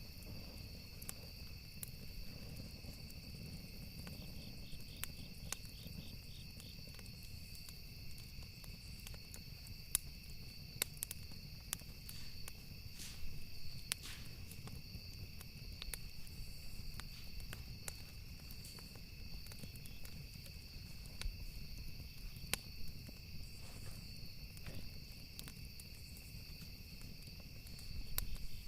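Campfire wood crackling: irregular sharp snaps and pops scattered over a low steady rumble, with a steady high trill behind it.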